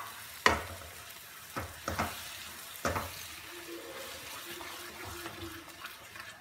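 Tomato paste frying and sizzling in a kadhai of hot mustard-oil onion masala as a spatula stirs it. The spatula knocks against the pan a few times in the first three seconds.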